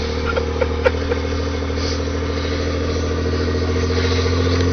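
Motorboat engine running steadily with a deep drone, creeping slightly louder and higher near the end. A few faint knocks come in the first second.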